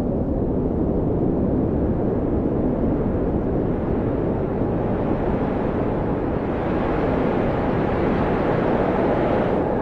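Blizzard wind blowing steadily, a deep rushing noise with a faint howling whistle that rises slightly in pitch near the end. It grows hissier from about six seconds in.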